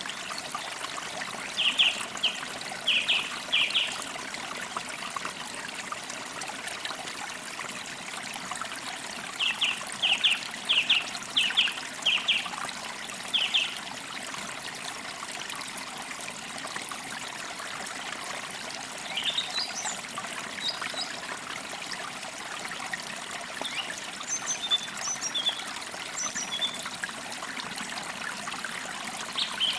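A stream trickling steadily, with forest birds singing over it. There are two bouts of quick repeated song notes in the first half, then higher, thinner chirps later on.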